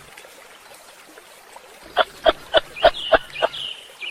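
After about two seconds of faint background hiss, an animal gives a quick run of about six short, sharp calls, roughly three a second. A thin, high whistling call follows near the end.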